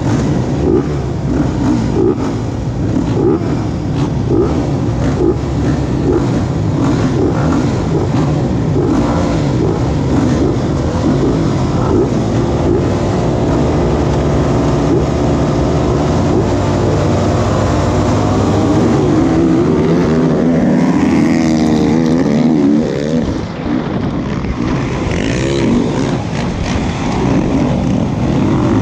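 Motocross dirt-bike engines running and revving, with the pitch sweeping up and down several times in the last third as a bike accelerates and lets off.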